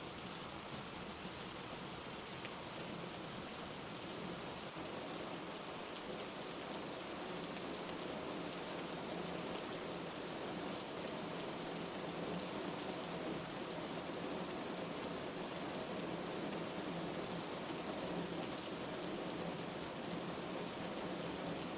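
Steady, even rainfall pattering on a surface, a continuous rain ambience.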